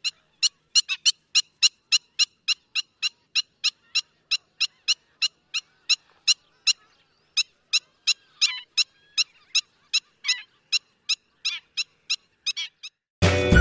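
Black-winged stilt calling: a long series of short, sharp calls repeated about three to four times a second, with a brief pause about seven seconds in.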